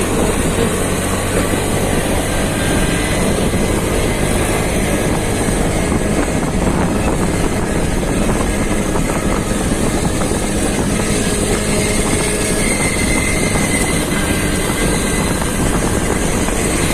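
Steady rush of wind and road noise from a moving motorcycle, heard on its rider's microphone, with the engine running underneath.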